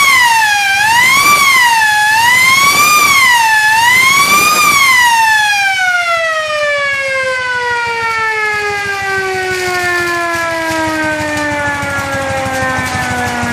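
Restored police siren wailing up and down, about one cycle every second and a half, then switched off and winding down in one long falling tone.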